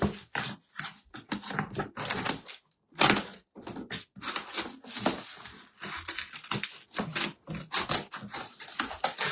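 Cardboard box and its tape being pulled and torn open by hand: a run of irregular crackles, rips and rustles.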